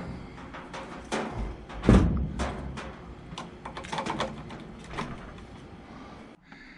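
A run of sharp clicks and knocks from handling, the loudest about two seconds in, as the washing machine's power cord is being plugged in.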